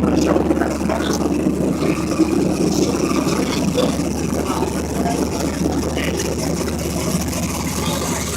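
A car engine idling steadily, with faint voices in the background.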